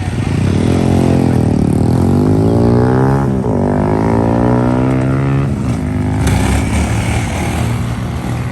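A motorbike engine revving. Its pitch climbs, drops sharply about three seconds in, climbs again, then falls away after about five seconds, over a steady low engine rumble.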